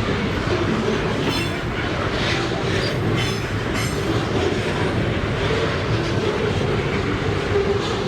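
Freight train passing, its wagon wheels running over the rails in a steady loud rush with some clickety-clack. Brief high-pitched wheel squeals come a little over a second in and again about three seconds in.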